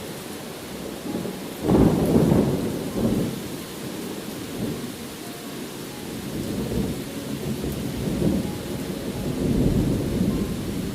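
Steady rain with a sudden thunderclap about two seconds in, followed by deep rolling rumbles that swell and fade several times.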